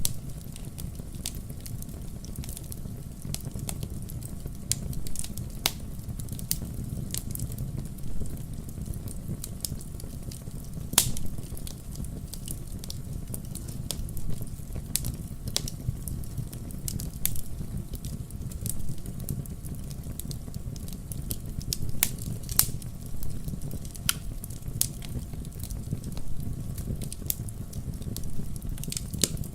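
Wood campfire crackling, with a steady low rumble of flames and scattered sharp pops, a few louder ones standing out.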